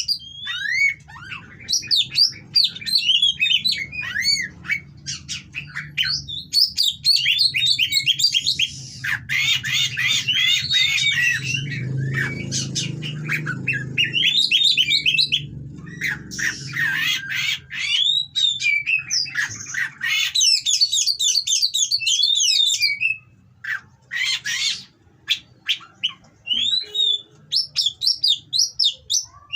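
Oriental magpie-robin (kacer) singing a long, rapid run of varied whistles, glides and harsh chattering notes, broken by short pauses near the end, over a faint low hum.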